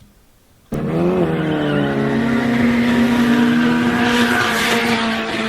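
A sports car's engine bursts in at high revs about a second in and is held at a steady high pitch, with tyre squeal and skidding noise building near the end, as in a drag-strip burnout.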